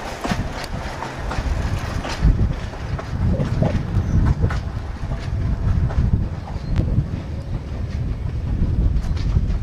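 Train rolling along the track: a steady low rumble with scattered sharp clicks and knocks from the wheels on the rails.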